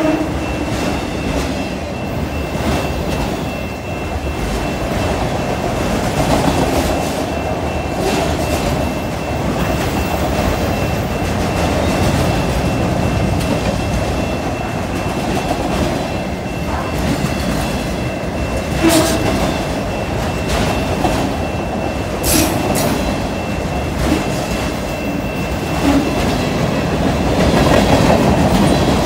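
Freight train of autorack cars and boxcars rolling past close by: a steady rumble of steel wheels on the rails with clickety-clack over the rail joints and a faint steady high ring. A couple of sharp metallic clanks come about two-thirds of the way through.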